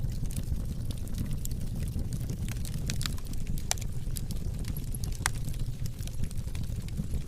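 Fireplace fire crackling: scattered sharp pops and snaps over a steady low rumble.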